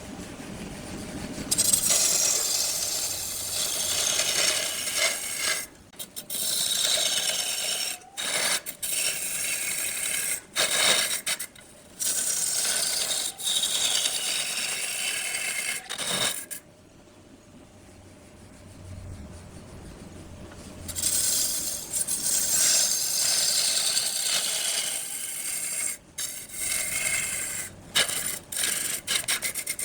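Wood lathe turning: a cutting tool scraping and shaving a spinning wood block in long noisy stretches. The sound stops and starts abruptly several times, with a quieter spell in the middle.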